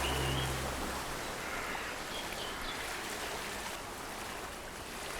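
Steady rush of flowing stream water, with a few short high chirps. Low sustained background music ends about a second in.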